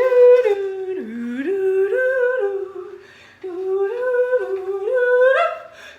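A woman humming a wordless tune as pretend telephone hold music. It comes in two short phrases of stepping notes with a brief pause between them.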